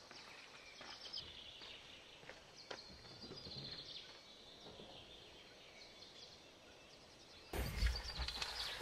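Faint chirping of small birds with scattered small clicks. Near the end, a loud rushing noise with a deep rumble cuts in suddenly.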